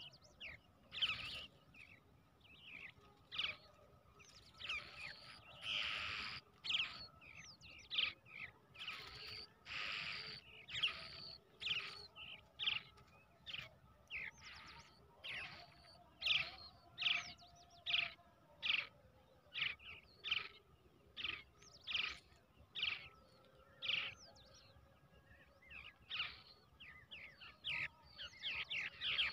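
Brown shrike nestlings calling over and over, short shrill calls about once or twice a second, with a few longer calls of about a second mixed in. These are typical begging calls of young birds.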